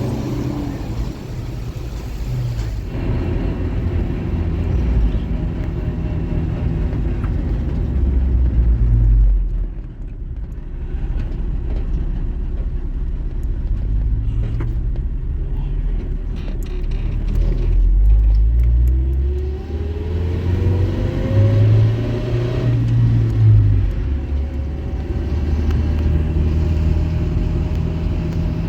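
A car driving: steady engine and road rumble, with the engine note rising as it speeds up, about two-thirds of the way in and again near the end.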